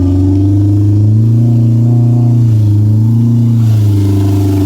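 Side-by-side UTV engine running under load in deep mud, revving up and down a little as the driver works the throttle.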